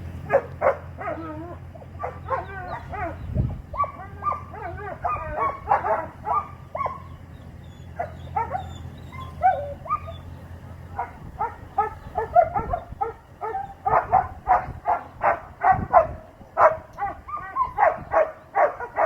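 Young Doberman barking and yelping over and over, with some whiny calls that bend in pitch. The barks come quicker and louder in the second half. A low steady hum runs under the first half and stops about halfway through.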